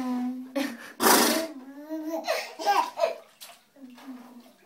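Drawn-out wordless vocal noises, pitched sounds that slide up and down, broken by short breathy blasts of air, the loudest about a second in.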